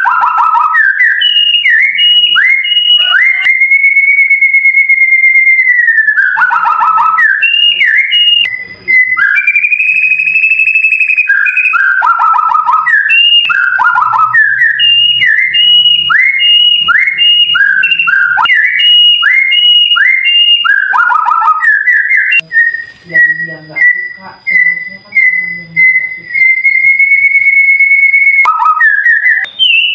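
White-rumped shama (murai batu) song: loud, clear whistled phrases of quick falling sweeps and repeated notes, broken a few times by long held whistles. Near the end it turns to a run of short, even notes that run into another held whistle.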